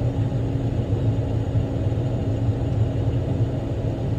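Big rock truck's diesel engine running steadily under way: a continuous low rumble with a steady hum above it.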